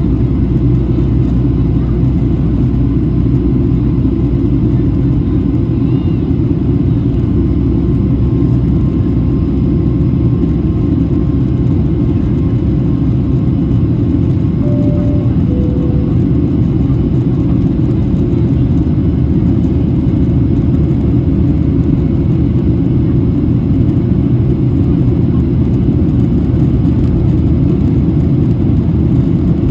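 Steady low cabin rumble of a Boeing 737-800 in flight after takeoff, from its CFM56-7B jet engines and the airflow past the fuselage. About halfway through, a two-note cabin chime sounds, high then low.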